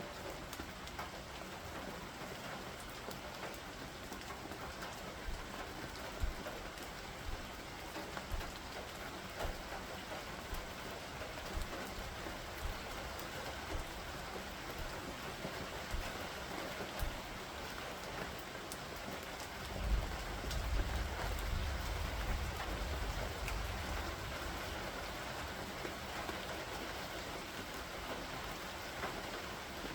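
Steady rain falling during a thunderstorm, with scattered sharp drip ticks. About twenty seconds in, a low rumble of thunder rises and fades over a few seconds.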